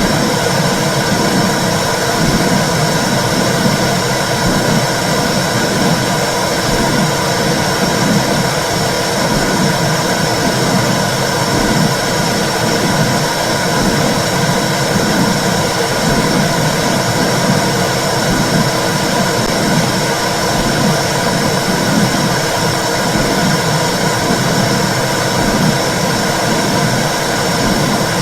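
Womb sound for soothing babies: a steady whooshing noise with a low, rhythmic pulse about once a second, like blood flow and a heartbeat heard inside the uterus.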